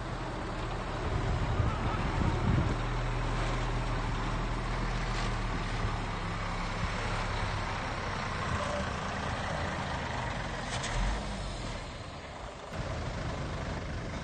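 Heavy diesel earthmoving machinery running steadily at a landfill site, a low engine drone that swells briefly early on and dips for a moment near the end.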